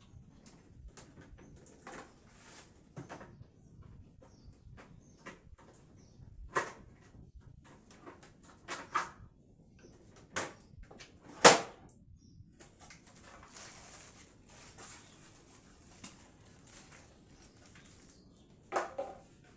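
Scattered small knocks and clicks of household handling, the loudest a sharp knock about halfway through, with a faint rustling hiss for a while after it.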